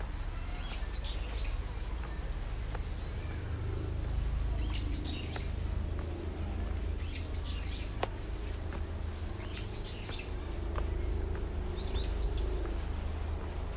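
A bird calling repeatedly in woodland, a short high falling call about every two seconds, over a steady low rumble with a few faint clicks.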